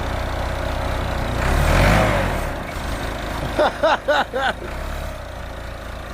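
Backhoe engine running under load, swelling louder for a moment about two seconds in, then settling back. About four seconds in there are four short vocal calls.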